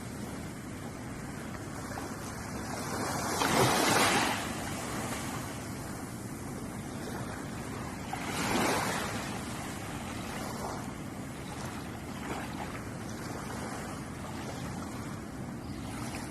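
Ocean waves washing onto a shore: a steady hiss of surf, with two louder waves breaking about four and eight and a half seconds in.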